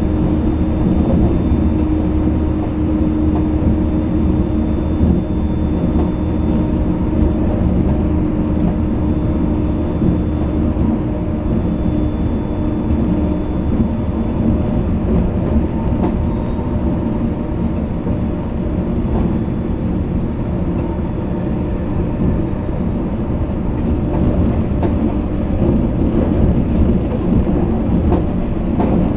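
Cabin running noise of a JR East E657 series limited express electric train between stations: a steady rumble of wheels on rail with a humming tone that drops away about halfway through and returns near the end.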